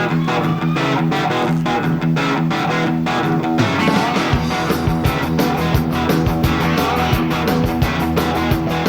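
Live rock band playing a song's instrumental intro: strummed electric guitar chords, with bass and drums coming in about halfway through.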